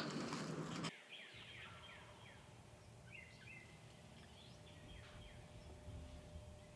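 Faint chirps and short downward-sweeping calls of small birds, scattered with gaps and one longer note about three seconds in. This follows a louder rustle of noise in the first second.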